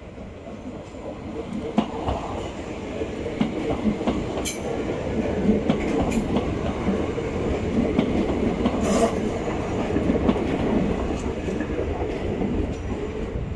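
Southern Class 377 electric multiple unit approaching and running past, its wheels clicking over the track. It grows louder over the first few seconds, with sharp clacks about four and nine seconds in, then fades as it goes by.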